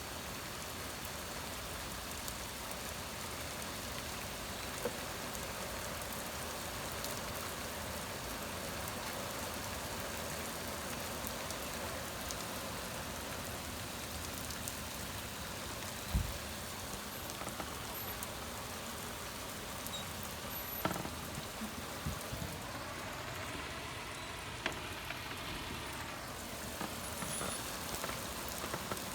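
Heavy rain pouring steadily, with a few sharp taps. About three-quarters of the way through, a vehicle passes on the wet road with a rising and falling swish.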